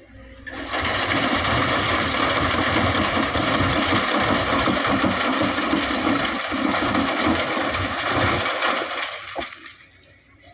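Excavator loading sand into a dump truck: a loud, steady rushing noise with the machine running under it, which comes on about half a second in and fades out near the end.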